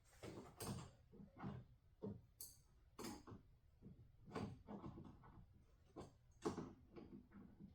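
Faint, irregular clicks and knocks, a few each second, from hands and tools working in a pickup's engine bay.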